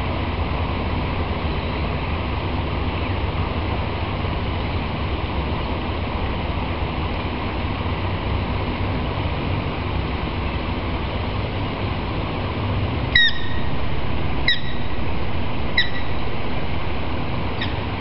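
Steady low outdoor rumble. Near the end, a bird gives a short falling call four times, each about a second and a half apart.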